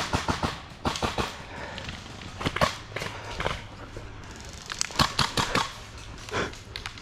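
Footsteps and gear rustle of a player moving on foot, heard as irregular sharp clicks and knocks that bunch together about a third of the way in and again later.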